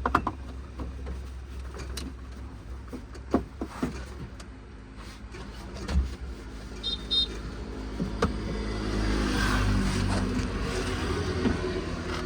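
Diesel engine of a JCB backhoe loader running while it digs and loads mud, with several sharp clanks scattered through. The engine grows louder from about nine seconds in, as if working harder.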